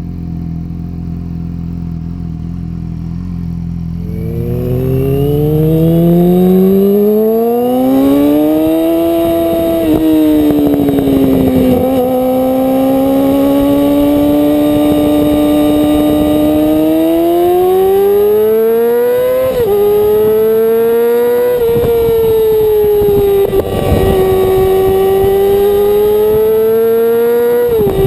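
Yamaha YZF-R6 inline-four through a Termignoni Strada full-system exhaust, running low and steady, then revving up sharply about four seconds in. It is then held at high revs, its pitch swelling and sagging with the throttle and breaking briefly several times.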